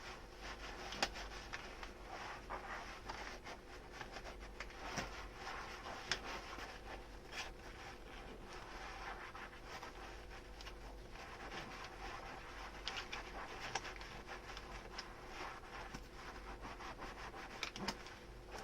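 Dishes being washed by hand: a sponge scrubbing and rubbing tableware, with scattered light clinks of dishes.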